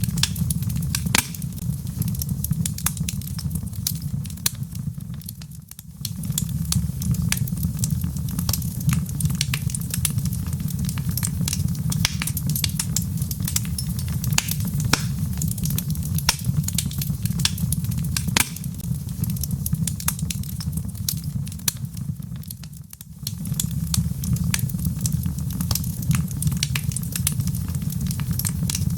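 Wood fire crackling in a fireplace: frequent sharp pops and snaps over a steady low rumble of the flames, which dips briefly twice.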